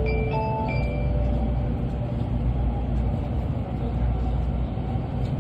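Steady low rumble and running noise inside a Tokaido Shinkansen car as the train runs. The last notes of the on-board announcement chime fade out in the first second.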